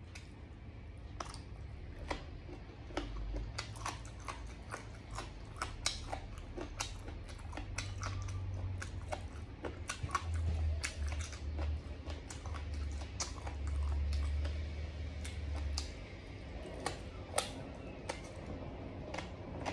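A person chewing braised pig ear and other pork offal close to the microphone: many sharp, irregular wet clicks and crunches, over a low rumble that swells about halfway through.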